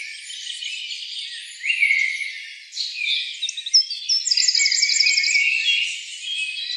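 Several small birds singing and chirping at once, in short whistled notes and quick glides, with a fast high trill about four seconds in.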